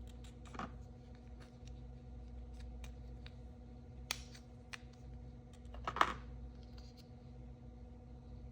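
Hands handling and opening toy packaging: scattered small clicks and rustles, with brief louder sounds just after the start, about four seconds in, and about six seconds in, the last the loudest, over a steady low hum.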